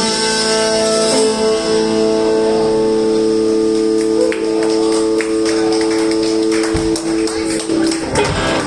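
Live blues band holding the final chord of the song: saxophone, electric guitars and bass sustaining together over a cymbal wash from the drums, with a drum hit near the end. The chord rings out and stops about eight seconds in.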